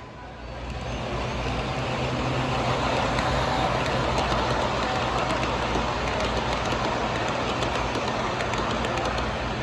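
Model train running on a layout track, a steady rumble that swells as it passes close and then eases off a little, over a low steady hum.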